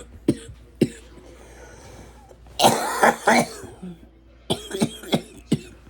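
A person coughing repeatedly: a couple of single coughs, a longer, louder coughing spell about halfway through, then a quick run of coughs near the end. This is the cough of someone smoking a blunt.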